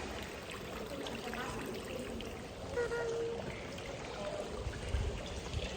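Steady running and splashing water, like a small waterfall or water feature.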